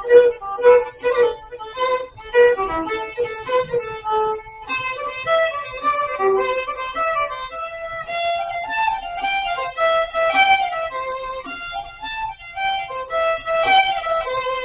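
Violin playing a lively Celtic-style fiddle tune, quick short notes for the first few seconds giving way to longer held notes.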